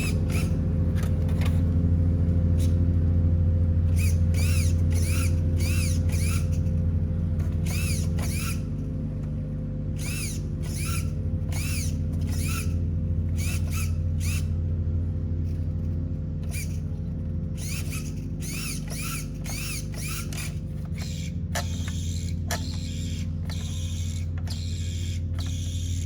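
Traxxas EZ-Start electric starter spinning a Traxxas Nitro Sport's nitro engine over with a steady whirring drone, the engine not firing. Short high squeaks repeat about twice a second in runs through it.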